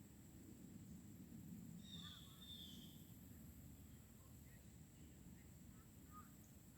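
Near-silent outdoor ambience with a low, steady rumble. A bird gives one brief high call about two seconds in, and a few faint chirps follow later.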